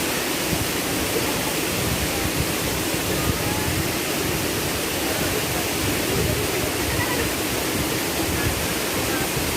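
Waterfall pouring down into its pool: a steady, unbroken rush of falling water.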